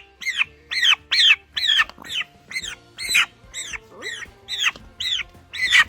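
Young turkey peeping over and over, about two short high calls a second, each sliding down in pitch, typical of a poult's distress call while it is held.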